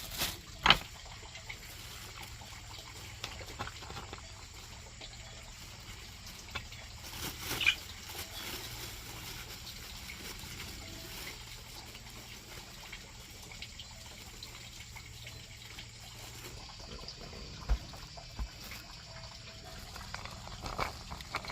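Water trickling steadily, with a few sharp knocks.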